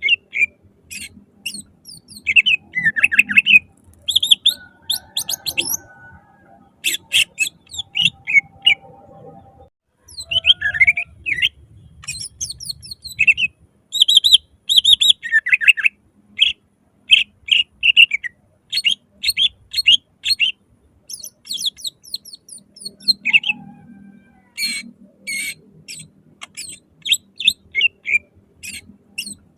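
Cucak ijo (green leafbird) singing loudly in quick strings of sharp chirps and whistled notes, with short pauses between phrases.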